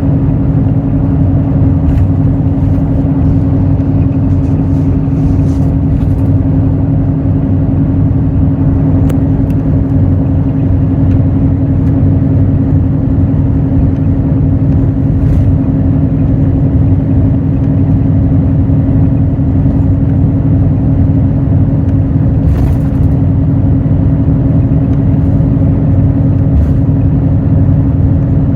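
Hino J08E-VD inline-six diesel engine of an intercity bus running at a steady engine speed, heard from inside the bus as a constant drone over low road rumble. A few faint ticks come and go.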